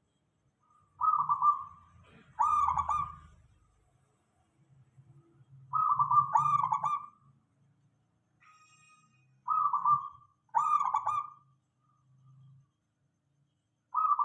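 Zebra dove (perkutut) singing: short, rolling coo phrases repeated about six times, with gaps of a second or more between them.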